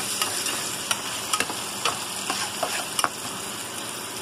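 Ginger-garlic paste, onions and whole spices sizzling in hot oil in a nonstick frying pan while a slotted spatula stirs them, scraping and clicking against the pan several times over a steady hiss.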